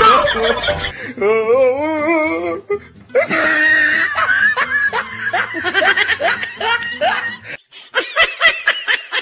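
Loud laughter over music, with a wavering, high-pitched laugh early on and a rapid string of short 'ha-ha' bursts, about six a second, near the end.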